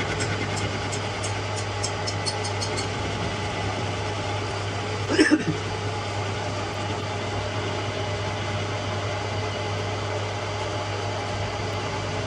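Workshop machinery running with a steady hum, with a light regular ticking, about three or four a second, over the first few seconds. About five seconds in there is one brief louder sound.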